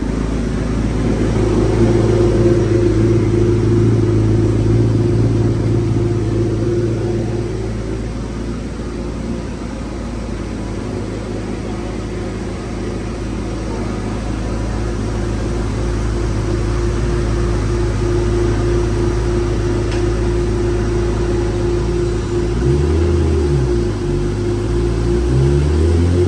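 Inline-four sport-bike engine running on a dyno, held at a steady engine speed for about twenty seconds, then its revs rising and falling several times near the end.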